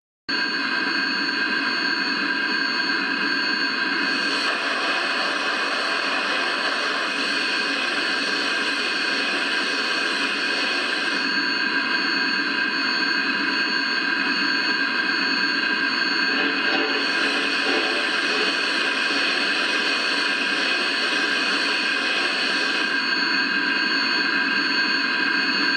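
USA Trains FEF-3 G-scale model steam locomotive with a Zimo sound decoder and smoke generator, giving a steady hiss laced with high, constant whining tones and no chuffing rhythm.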